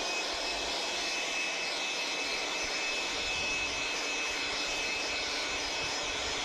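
Cordless air blower running steadily: an even rush of air with a steady high-pitched motor whine, blowing dust out of a skid steer's dirty engine air filter.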